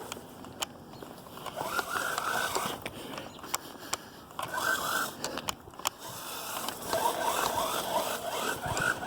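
Hosim S911 RC truck's electric motor and gears whining in several short bursts, the pitch wavering, as it spins its wheels in wet snow, with scraping and small clicks between bursts.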